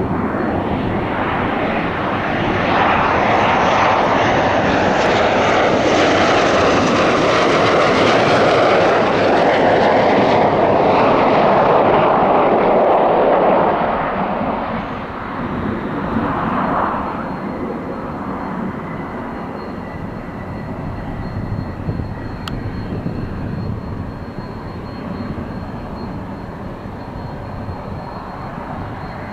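F-15 fighter jet passing by. Its engine noise is loud for about the first half, with a slow sweeping shift in tone, then drops to a lower, steady jet noise with a brief swell a few seconds later.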